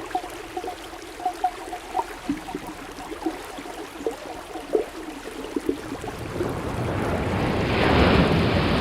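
Underwater ambience: a run of small bubbling pops, then a rushing swell of water that builds from about six seconds in and peaks near the end.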